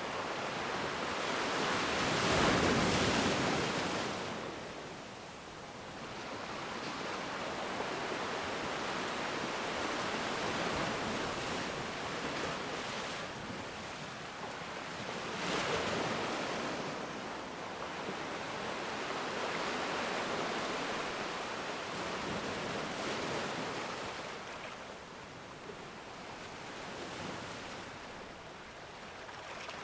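Ocean waves breaking and washing on the shore, a steady surf that swells with the biggest wave a couple of seconds in and another around the middle.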